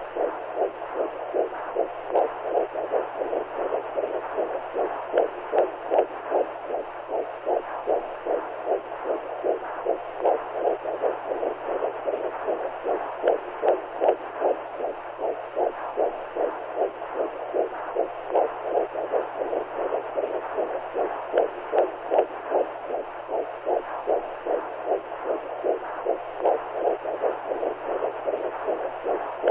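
Womb sound: a steady whooshing noise pulsing in a regular heartbeat-like rhythm, over a faint low hum.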